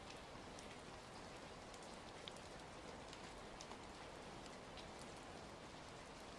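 Faint, steady rain with scattered sharp crackles of a wood fire mixed in.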